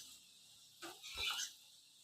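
Pet lory (nuri parrot) giving one short call about a second in, just after a faint click.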